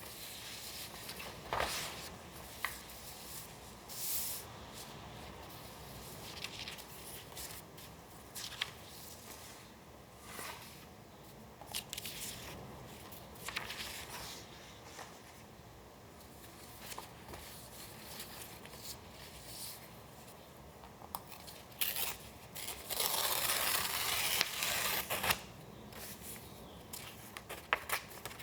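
Paper being handled and torn: scattered short crisp rustles and crinkles, then a longer, louder tear lasting a few seconds about two-thirds of the way in.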